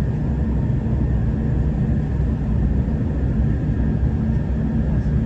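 Inside a V/Line diesel passenger train's carriage while it travels: a steady low rumble of the train running, with a faint steady high tone above it.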